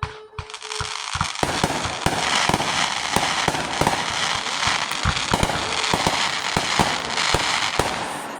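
Fireworks crackling: after a short steady tone, a dense run of many sharp pops and crackles sets in about a second in and keeps going.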